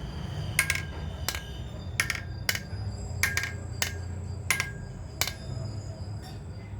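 Sharp, ringing metal-on-metal clinks, about nine of them roughly two-thirds of a second apart, over a steady low hum.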